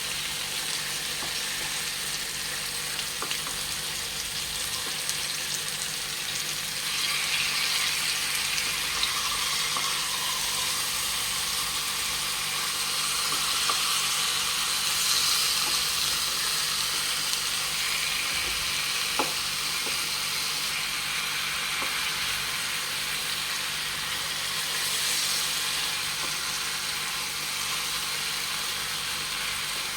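Marinated chicken pieces frying in olive oil in a pan, a steady sizzle, with one light tap about two-thirds of the way through.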